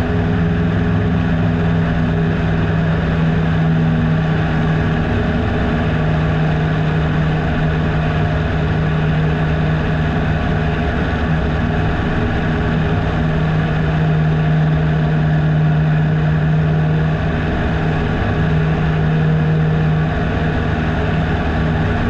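A Piper Super Cub PA-18-150's 150-horsepower four-cylinder Lycoming engine and propeller droning steadily in cruise flight, heard from inside the cockpit, with a strong steady low hum.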